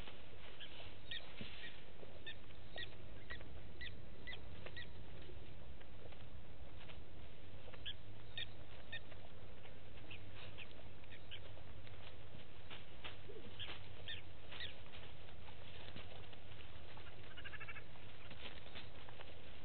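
Birds calling: short, high chirps in quick runs of several, with a longer call near the end, over a steady low hum.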